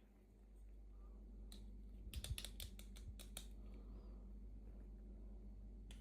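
Small plastic clicks and taps from toy packaging and miniature pieces being handled: one click, then a quick run of about eight sharp clicks around the middle, over a faint steady hum.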